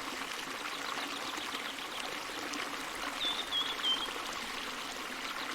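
Steady running-water sound like a stream, with a quick run of three short high chirps about three seconds in.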